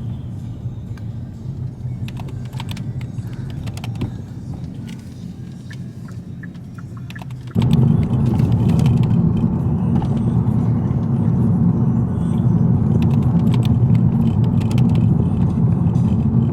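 Car road noise heard from inside the cabin: a steady low rumble with scattered light clicks and rattles. About seven and a half seconds in it jumps abruptly louder and stays that way.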